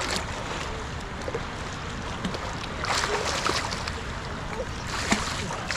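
Steady rush of water with wind noise, with a louder, splashier hiss about three seconds in.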